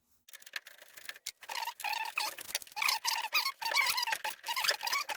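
Rapid metallic clicking in short repeated strokes, typical of a ratchet wrench turning fasteners back into a car door's window regulator.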